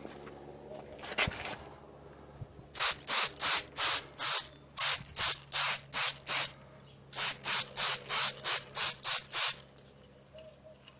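Aerosol spray-paint can spraying a top coat in short hissing bursts: one brief spray about a second in, then about twenty quick bursts, roughly three a second, in three runs with short pauses, stopping near the end.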